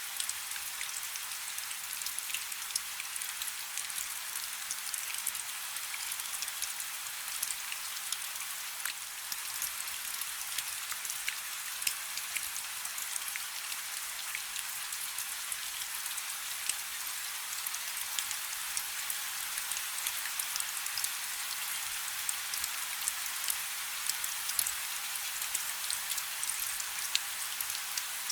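Light rain falling steadily: a soft, even hiss with many small, crisp drop ticks scattered through it.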